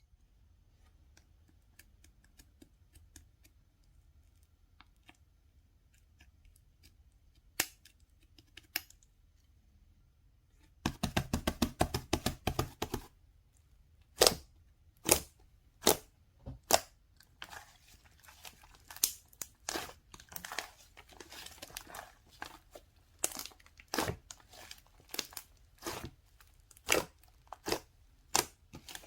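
Crinkling and tearing sounds, like packaging being handled: faint ticks at first, a quick run of dense crackles about eleven seconds in, then separate sharp crackles about once a second.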